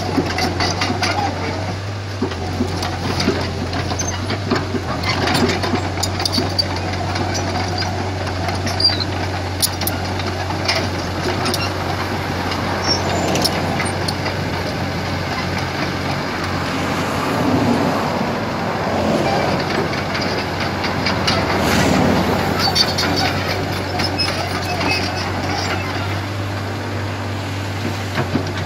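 Komatsu PC75 excavator's diesel engine running steadily under work, with scattered clanks and knocks from the machine throughout.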